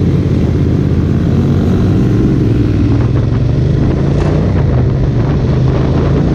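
Motorcycle engine running steadily while riding at cruising speed, a constant low drone with wind noise over it.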